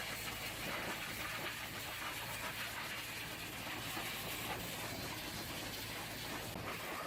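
High-pressure water spray, a steady hiss over a low steady hum.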